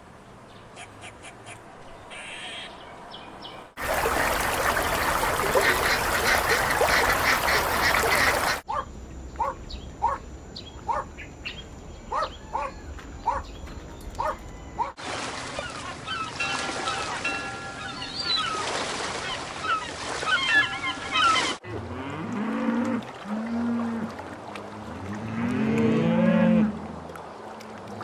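A string of spliced farm-animal sound clips cut hard one to the next: a loud noisy stretch of flock calling, then a run of short repeated waterfowl calls, then chirping calls, and near the end several low, drawn-out rising-and-falling animal calls.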